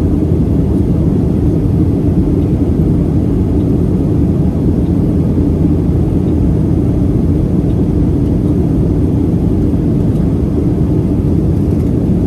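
Steady cabin noise inside a Boeing 737-700 in flight: a constant low rumble of engines and rushing air, unchanging throughout.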